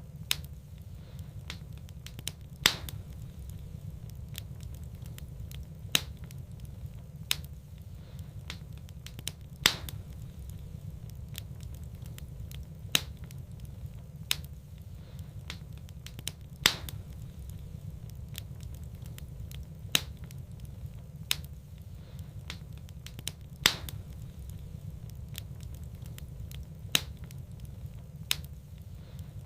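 Wood fire burning in a fireplace: sharp crackling pops every two or three seconds, with fainter ticks between, over a steady low rumble of the flames.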